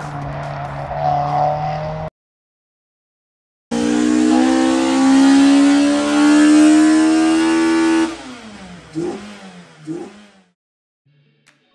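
A car engine revved hard and held at high revs for about four seconds, its pitch slowly rising, then dropping away with a few quick throttle blips. Before it, about two seconds of a car running cut off abruptly into a short silence.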